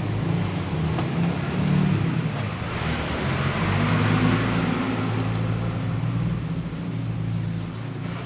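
Yamaha Mio scooter's small single-cylinder engine running steadily, with a slight rise in engine speed about three to four seconds in.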